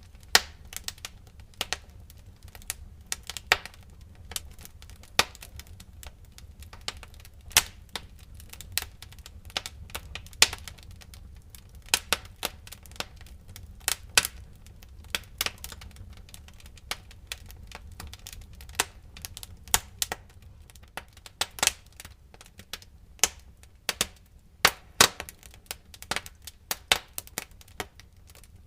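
Wood fire crackling in a fireplace: irregular sharp pops and snaps, some much louder than others, over a low steady rumble of the flames.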